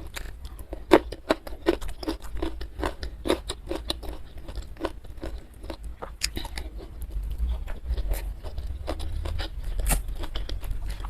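Close-miked chewing with irregular crisp crunches and wet mouth clicks: a person eating young jengkol.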